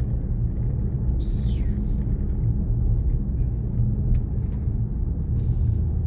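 Steady low rumble of a car's engine and tyres on the road, heard from inside the cabin while driving, with a brief falling hiss about a second in.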